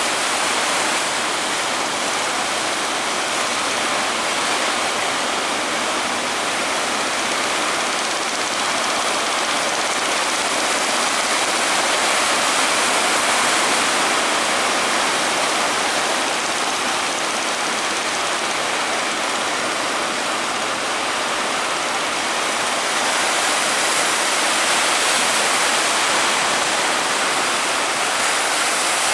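Continuous rush of breaking sea surf, swelling a little about halfway through and again near the end.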